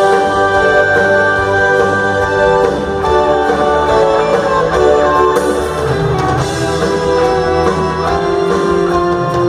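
Rock band playing live: an instrumental passage with guitar and drums under long held notes.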